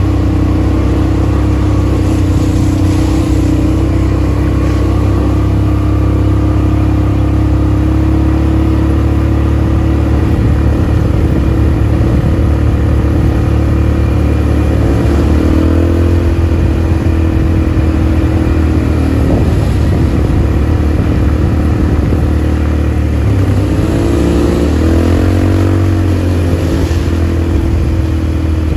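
ATV engine running steadily under way. Its pitch swells up and back down about halfway through and again near the end.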